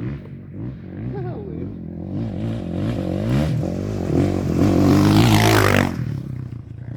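An off-road race vehicle's engine approaching and passing at speed on a dirt course. It grows louder and peaks about five seconds in, with a rush of noise, then falls away quickly.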